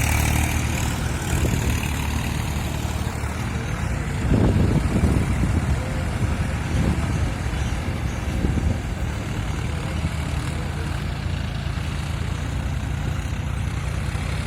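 Tractor engine running steadily with a low drone, louder for a moment about four seconds in and swelling briefly a couple more times after.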